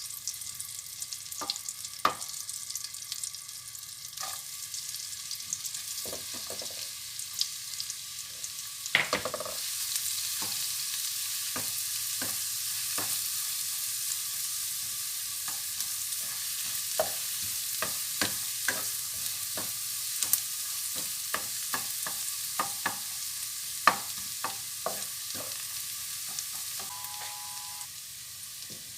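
Food sizzling in a frying pan while being stirred, with a utensil clicking against the pan now and then. The sizzle gets louder about nine seconds in.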